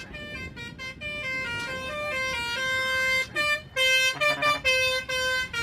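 Truck horn sounding a quick series of held notes at changing pitches, like a tune.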